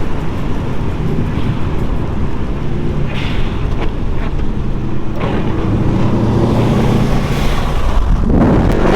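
Subaru Impreza WRX flat-four engine running as the car drives, heard over a constant rush of road and wind noise. The wind rush grows louder near the end.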